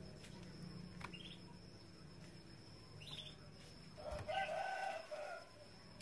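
Canaries in a cage give two short rising chirps, about one and three seconds in. Then comes a louder, lower bird call lasting about a second and a half, with a soft thump as it begins.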